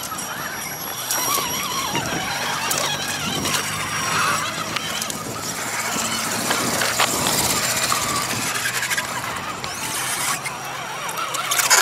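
Electric motor and gears of a radio-controlled scale crawler whining. The pitch rises and falls as the throttle is worked, with a rougher, louder stretch near the end.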